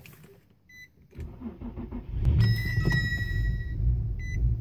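A 2006 Infiniti G35x's 3.5-litre V6 is cranked by the starter for about a second and then catches and runs unevenly. This is the sputtering and hesitation on a cold start that the owner is asking about. A high steady tone sounds for about a second as it catches, and a short beep comes near the end.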